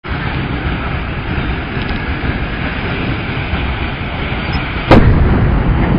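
Steady rumbling noise, with a sudden loud bang about five seconds in, after which the rumble stays louder.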